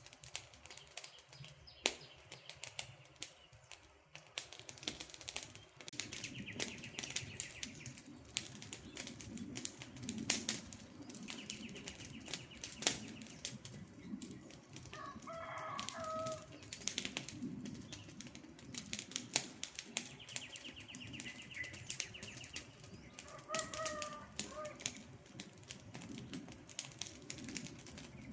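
Wood campfire crackling with frequent sharp pops. Birds call in the background: a high buzzy trill three times and a lower call of a few pitched notes twice.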